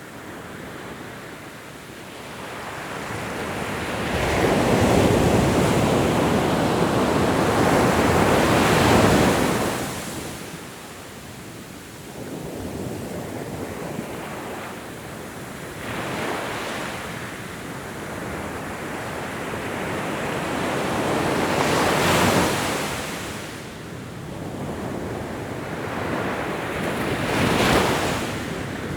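Ocean waves breaking and washing on a shore, the surf swelling and ebbing every few seconds with one long loud surge about four to ten seconds in. Wind noise on the microphone runs underneath.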